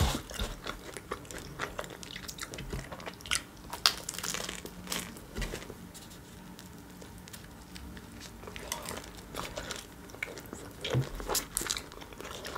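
Close-miked biting and chewing of a chicken shawarma whose lavash wrap is over-dried and hard to bite: a run of short crisp crunching clicks and crinkling, busiest near the start and again near the end, sparser in the middle.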